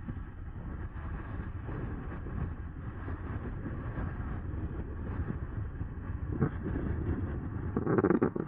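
Riding noise from a moving e-bike: a steady rumble of wind on the microphone and tyres on the path. There is a short knock about six and a half seconds in and a louder rattle near the end as the bike goes over bumps.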